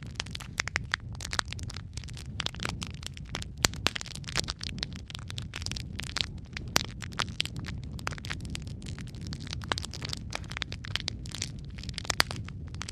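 Logs burning in a fireplace: a steady low rumble of flame with irregular crackles and occasional sharp pops.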